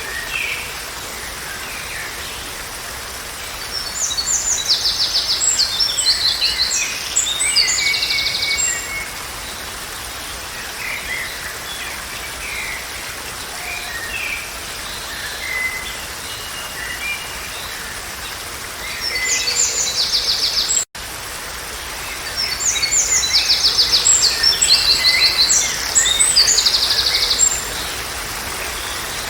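Songbirds singing fast trilled phrases in two bouts, about four seconds in and again from about nineteen seconds in, over a steady hiss of background noise. The sound drops out for an instant about twenty-one seconds in.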